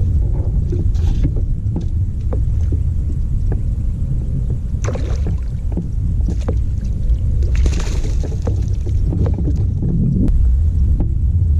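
Water splashing and small knocks around a fishing kayak on the water, over a steady low rumble.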